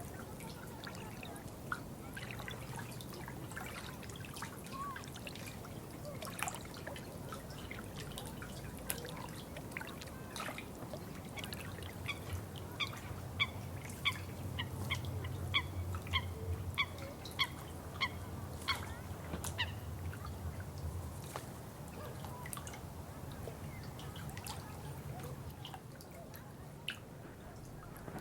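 Water dripping and trickling in scattered sharp drops, over a low steady rumble. About twelve seconds in, a bird gives a run of short, pitched calls, roughly two a second, for about eight seconds.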